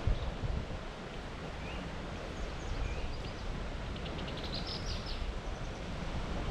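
Steady low rumble of wind on the microphone, with a few faint songbird chirps and, about four seconds in, a quick high trill from a small bird.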